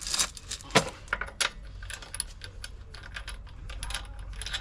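Metal wheel nuts and hand tools being handled, clinking and tapping: two sharper knocks in the first second and a half, then a run of lighter clicks.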